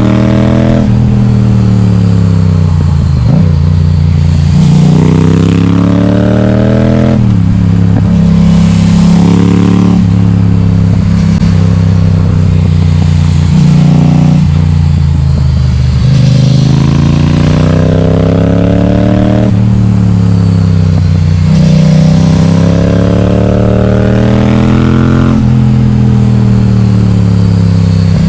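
Yamaha XSR700's 689 cc parallel-twin engine through an Akrapovic exhaust with the baffle removed, running loud as the bike is ridden. The engine note climbs again and again under acceleration, and each climb ends in a drop in pitch, some sudden and some gradual.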